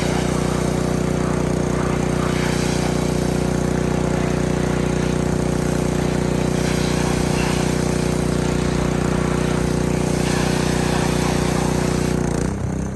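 Small gas engine of a pressure washer running steadily under load, with the hiss of the spray over it. Near the end its note shifts and the sound drops a little, as when the spray trigger is let go.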